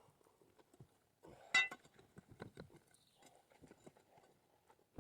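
Broken rocks being moved and thrown out: irregular hard knocks of stone on stone, with one sharp ringing clink about a second and a half in.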